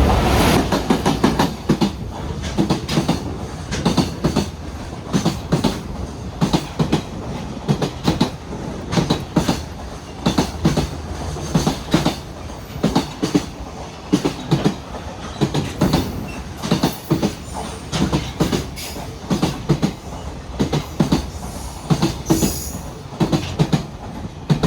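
EF210 electric locomotive and a long train of Koki container wagons passing: a loud rush as the locomotive goes by, then a steady run of clickety-clack as each wagon's wheels knock over the rail joints in regular groups. A brief high wheel squeal comes a couple of seconds before the sound falls away as the last wagon clears.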